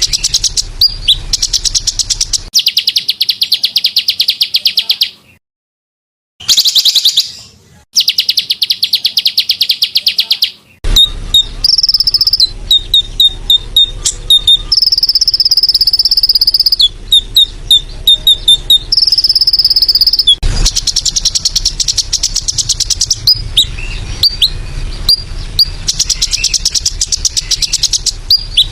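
Small songbirds' training-call recording: dense, very fast high-pitched buzzing trills, with clear whistled notes and short chips in the middle. The sound cuts out abruptly twice, briefly, a few seconds in, where the recordings are spliced.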